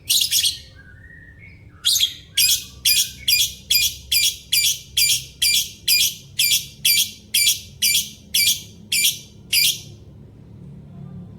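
A bird calling: one short call, then a long, even series of about eighteen sharp, harsh chirps, a little over two a second, that stops about ten seconds in.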